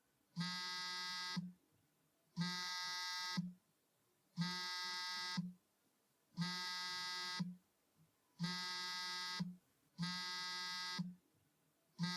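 A phone ringing: a buzzy ring tone about a second long, repeated every two seconds.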